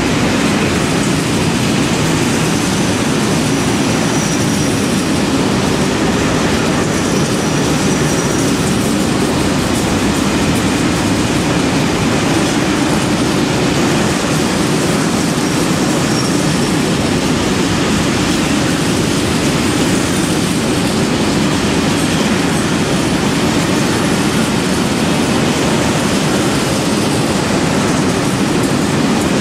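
Freight train of covered grain hopper wagons rolling steadily past: a continuous rumble of wheels on rails, with faint high-pitched wheel squeals coming and going.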